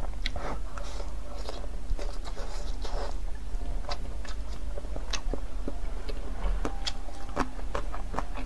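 Close-miked biting and chewing of a soft, thin-skinned steamed bun: irregular wet mouth clicks and smacks.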